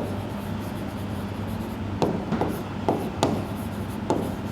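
Writing sounds: light scratching with a few sharp taps about two, three and four seconds in, over a steady low electrical hum.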